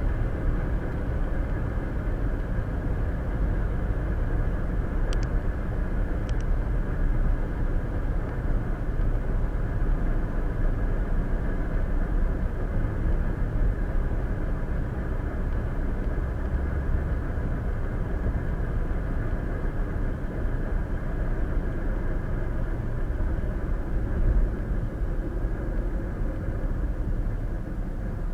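Steady road and tyre noise of a car cruising at highway speed, heard from inside the cabin. Two faint ticks about five and six seconds in.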